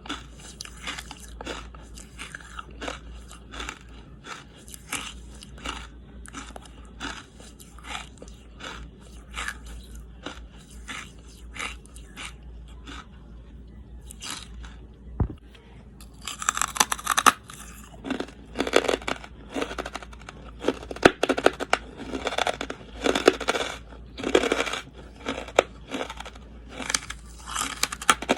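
Close-miked crunching and chewing of charcoal: steady chews at about one to two a second, a short lull a little under halfway, then louder, sharper crunches packed more closely until the end.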